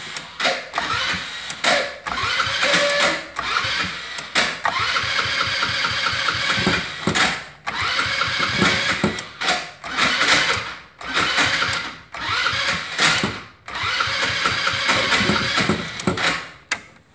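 Electric starter cranking the cold 150 cc carbureted go-kart engine in repeated bursts of a few seconds each, with short pauses between, without it starting. The owner takes the sound to mean the starter is not making full contact with the flywheel.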